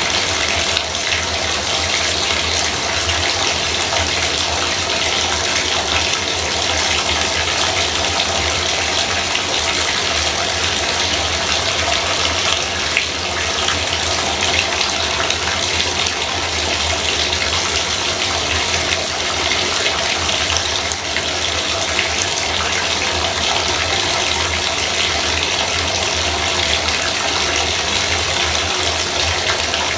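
Bathtub faucet running steadily, an unbroken hiss of water pouring into the tub with a low rumble beneath.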